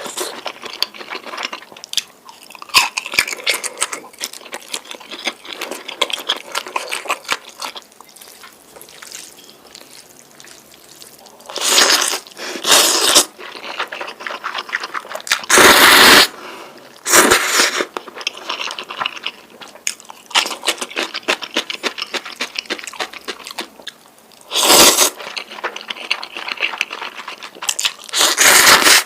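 Close-miked eating of noodles: steady wet chewing and mouth clicks, broken by about six loud, short slurps.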